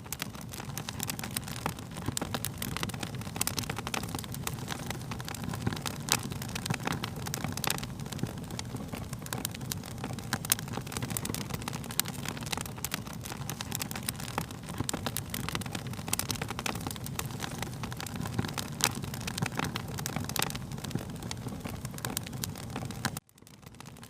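Wood fire crackling steadily, with dense sharp pops and snaps over a low rumbling hiss. The sound cuts out briefly about a second before the end, then fades back in.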